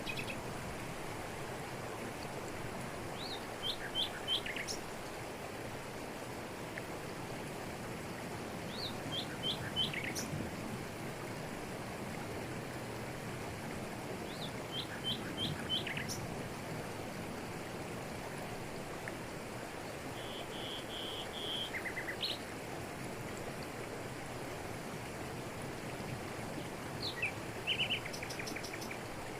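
Steady rush of a tropical forest waterfall falling over rocks, with birds calling over it: a short phrase of about four quick high notes repeated three times, several seconds apart, and a couple of short trills in the second half.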